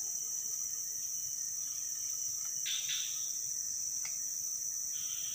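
Steady high-pitched drone of an insect chorus in the forest swamp, with a few short scuffs or splashes about three and five seconds in and a single click near four seconds.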